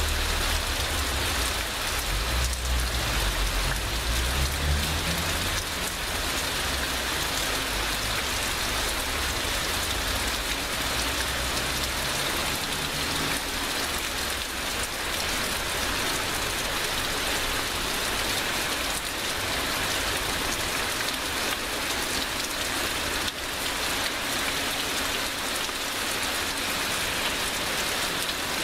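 Heavy rain pouring steadily, a dense even hiss of drops on surfaces, with a low rumble underneath that fades out about halfway through.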